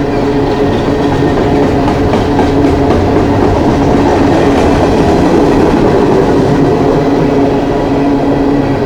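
Long loaded coal train rolling past below, a steady loud rumble of wheels on rail with a constant humming tone.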